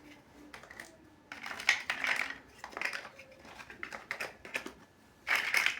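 Plastic Lego bricks clicking and clattering as they are handled and pressed together, in short uneven clusters of sharp clicks, the loudest near the end.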